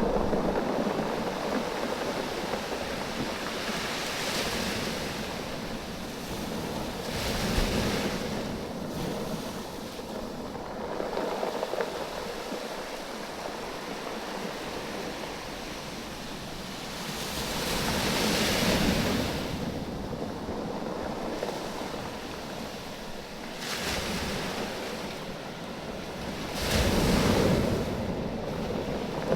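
Waves surging up a beach of rounded oval stones and drawing back, the stones rattling and clacking against each other in the wash. Several surges swell and fade every few seconds, the loudest about two-thirds of the way through and near the end.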